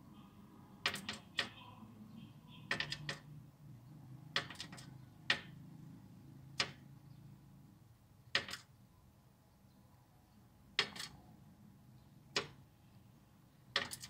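A bird striking and pecking at a window pane: sharp taps on the glass in quick clusters of two to four, repeated every second or two. It is attacking its own reflection, which the uploader takes for defence of its territory.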